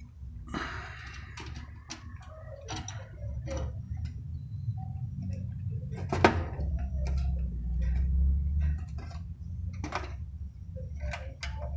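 Irregular clicks and knocks of hand work as a replacement capacitor is strapped in place in an air-conditioning unit, with one louder knock about halfway through, over a low rumble.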